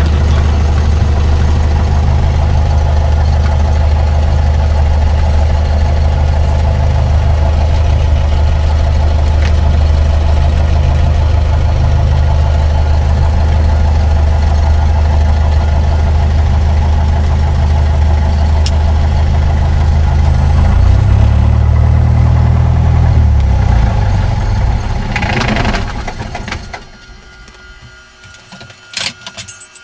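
Piper PA-28-161 Warrior's four-cylinder Lycoming engine idling, heard from inside the cabin. Its pitch shifts briefly, then it runs down and stops in the last few seconds, followed by a few clicks.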